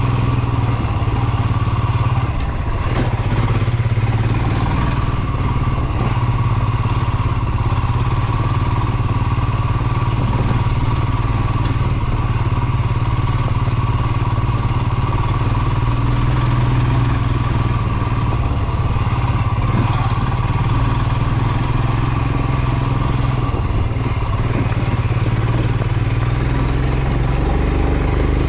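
Royal Enfield Himalayan's 411 cc single-cylinder engine running at a steady, unchanging pace.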